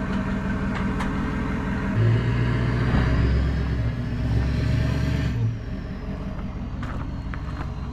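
Truck engine running at idle, then pulling harder for about three seconds as it backs the boat trailer, with a rising whine, before easing back to idle.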